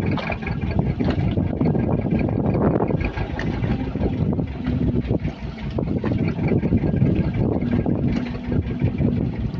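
Motorboat engine running, with wind buffeting the microphone.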